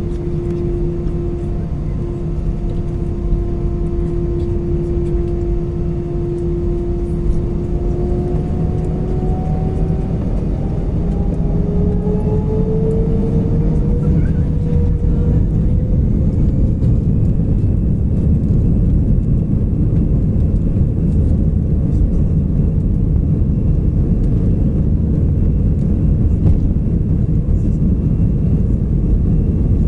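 Airbus A319's jet engines heard from inside the cabin. A steady whine climbs in pitch from about eight seconds in as the engines spool up to takeoff thrust, and the low roar grows louder and then holds steady.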